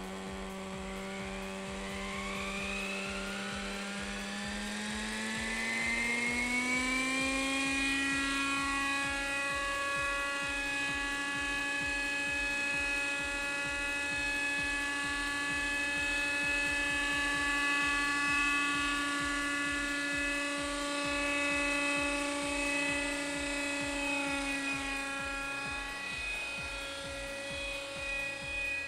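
Vintage Kyosho Nexus nitro RC helicopter's glow engine and rotor spooling up: the pitch rises over a few seconds, then settles into a steady high-revving whine, with a brief dip in revs near the end. The run-up is a check of the blade tracking after the blue blade's pitch link was adjusted.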